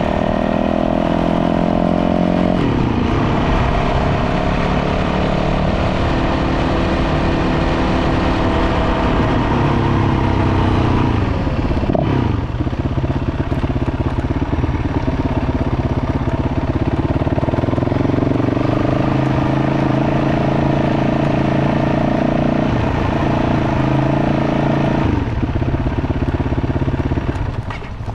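Dirt bike engine running on a trail ride, its pitch rising and falling with throttle and gear changes over a steady rush of wind and road noise. The engine sound drops away near the end.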